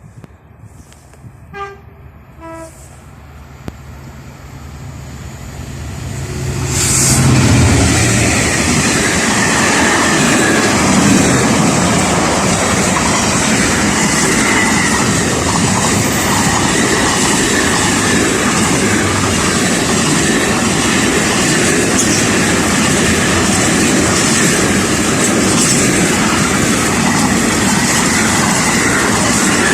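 A train approaching and passing over the level crossing: the rumble builds over a few seconds, then from about seven seconds a loud, steady rush of wheels on the rails as it goes by.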